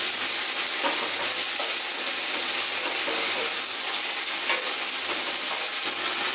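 Chopped onions and tomatoes sizzling in hot oil in a stainless steel kadai, with a steady hiss. A wooden spatula stirs and scrapes through the mixture, a few short strokes standing out now and then.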